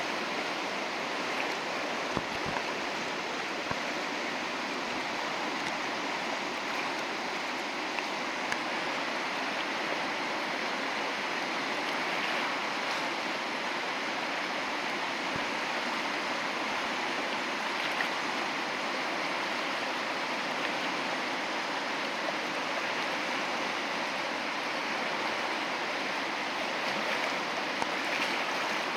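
Steady rush of whitewater on the Pemigewasset River, an even hiss of flowing rapids with no change in level.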